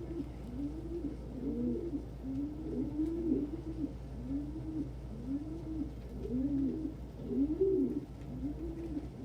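Domestic pigeons cooing, low rolling coos following one another about once a second, at times overlapping.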